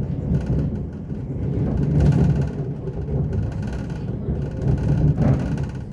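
Elizabeth line Class 345 train running on the track, heard from inside the carriage: a steady low rumble of wheels on rail, with louder rattling surges about two seconds in and again after about five seconds.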